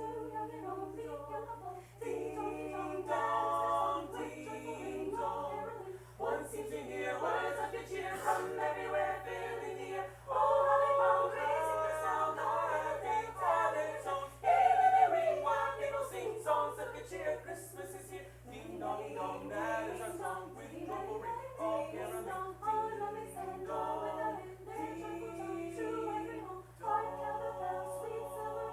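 A small choir singing a cappella, several voices holding and changing notes together, with a steady low hum underneath.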